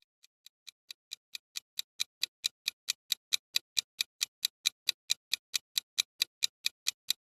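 Rapid, evenly spaced ticking, about four and a half ticks a second, growing louder over the first two seconds and then holding steady.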